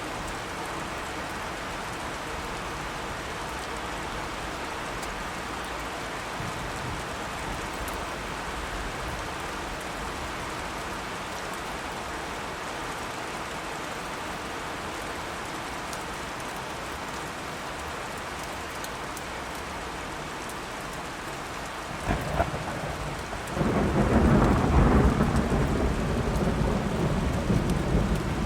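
Steady rain falling for most of the stretch, then near the end a sharp crack of thunder followed by a loud, rolling thunder rumble over the rain.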